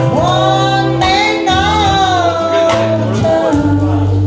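A live band playing, with a woman singing long held notes that slide in pitch over a bass line and drum hits.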